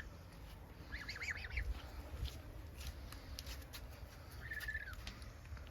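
A young goose calling in high, thin notes: a quick run of short calls about a second in, then one longer held call that drops in pitch at its end near the close. A few faint clicks fall between the calls.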